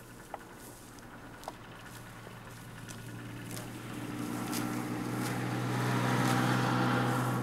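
A motor vehicle's engine running at a steady speed, growing steadily louder as it approaches and loudest about six seconds in, then easing slightly. Two small clicks sound in the first couple of seconds.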